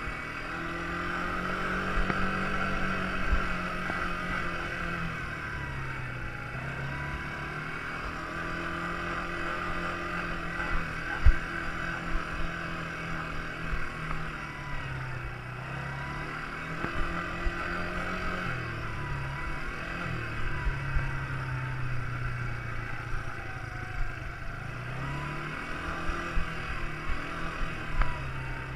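Quad bike engine running, its pitch rising and falling over and over as it speeds up and slows down, with scattered short thumps.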